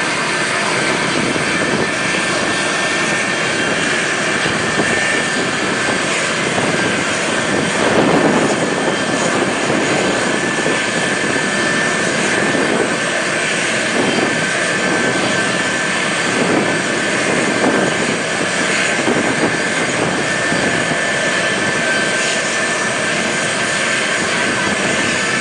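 Aircraft engine noise: a steady, loud drone with a thin high whine held over it, swelling slightly about eight seconds in.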